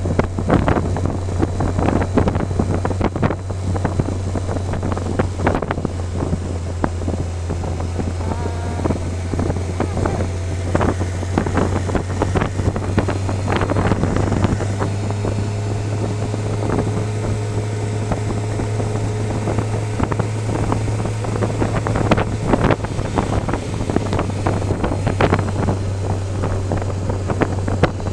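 Motorcycle engine running at a steady cruising speed, its low hum shifting slightly about halfway through, under heavy wind buffeting on the microphone.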